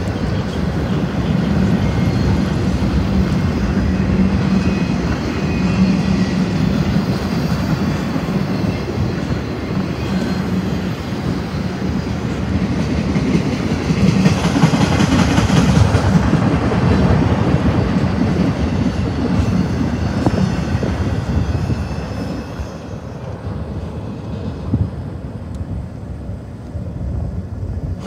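Cars of a BNSF intermodal freight train rolling past close by, a steady low rolling rail noise from the wheels and trucks. It gets louder with more hiss about halfway through, then fades over the last few seconds as the end of the train moves away.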